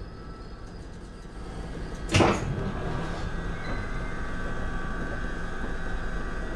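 Passenger train: a single loud clunk about two seconds in, then a steady high whine over a low rumble.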